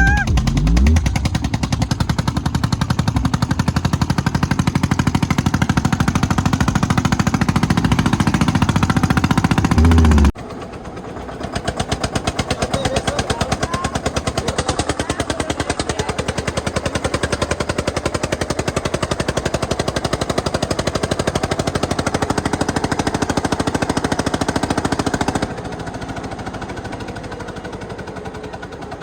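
Diesel tractor engine running with a rapid, even exhaust knock. The sound cuts abruptly about ten seconds in and again near the end, each time to a quieter stretch of the same pulsing.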